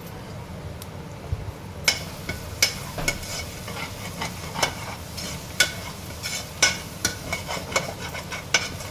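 A spoon stirring and scraping fried onion masala in a pressure-cooker pot on the stove. It starts about two seconds in as an uneven series of sharp scrapes, one or two a second, over a low background.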